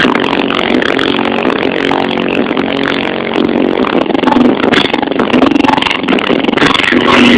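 Alpha PSI15D2 15-inch car subwoofer, driven by a Soundstream RUB1.2500D amplifier, playing bass-heavy music at high volume. The phone recording is overdriven, so it comes across as a buzzy, distorted drone that shifts in pitch, with clatter mixed in.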